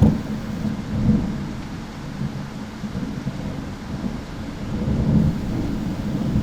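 Thunder: a loud clap right at the start rolls on as a long low rumble, swelling again about a second in and near five seconds in, over steady rain.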